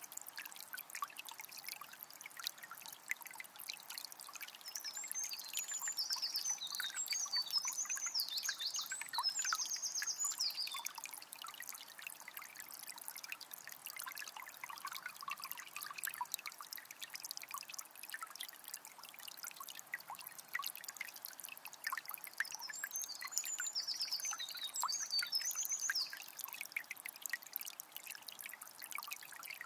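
Shallow forest river trickling and babbling over stones, a dense patter of small splashes. A small bird sings twice, a few seconds each time, once near the start and again about two-thirds of the way in.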